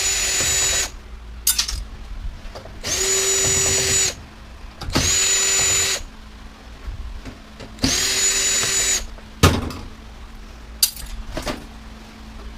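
Cordless drill/driver backing out screws from a washer/dryer: four short runs of about a second each, each spinning up to a steady whine and winding down. A few sharp clicks and knocks of metal parts come between them, the loudest a knock about two-thirds of the way through.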